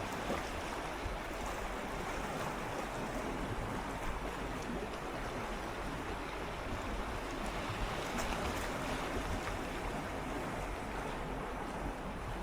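Gentle sea water swirling and lapping against shoreline rocks, a steady wash of splashing with a slight swell about eight seconds in.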